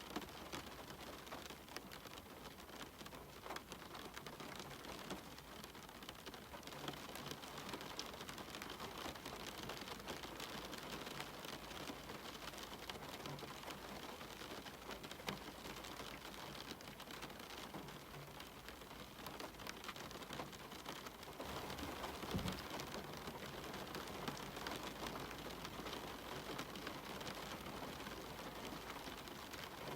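Steady rain falling, an even hiss with many individual drops ticking close by. About two-thirds of the way through there is a brief low thump.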